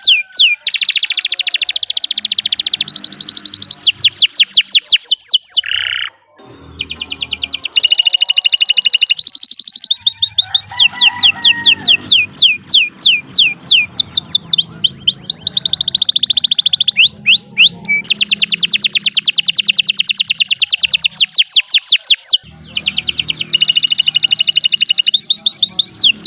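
Domestic canary singing a long, continuous song of fast rolling trills, many quick sweeping notes a second, changing from one trill to the next. The song breaks off briefly about six seconds in and again near the end.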